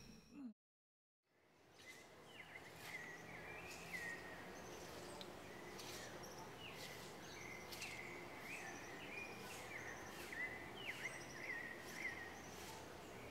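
Birds chirping in short repeated calls over a faint steady background, with a few faint clicks scattered through; the sound starts from dead silence about a second and a half in.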